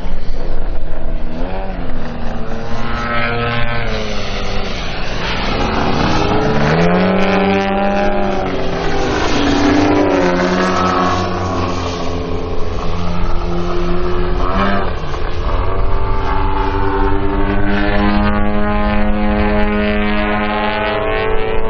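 Engines of two radio-controlled Extra 330 SC aerobatic model planes flying, their pitch rising and falling as they throttle up and down and pass by, at times two engine notes overlapping.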